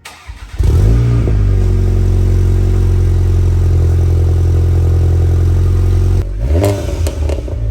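Audi engine cold-started through a newly fitted aftermarket exhaust: a short crank, the engine catches with a rev flare about a second in, then settles into a loud, steady high idle. Near the end the revs briefly dip and waver.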